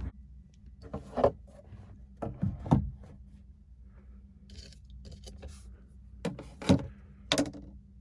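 A series of about six knocks and clunks of things being handled and set down, in pairs and threes, over a faint steady low hum.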